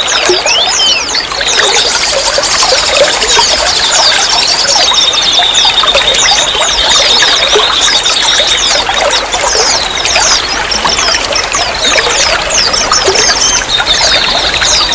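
Water trickling and splashing steadily. Over it come many quick high chirps, and a long steady high trill runs through the middle and comes back near the end.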